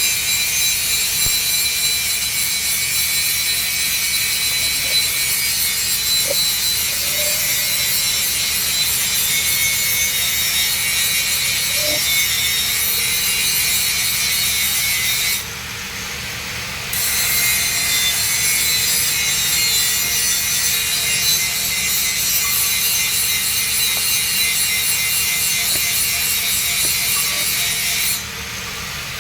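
Electric arc welding on a thick-walled steel pipe joint: a steady, loud arc crackle and hiss that stops briefly twice, about halfway through and near the end, as the arc is broken.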